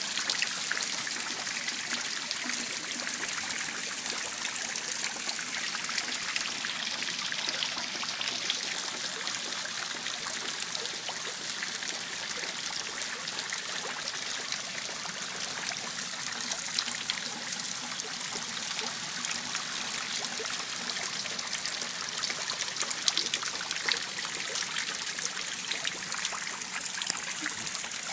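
Water running and trickling steadily, a continuous hiss of flowing water.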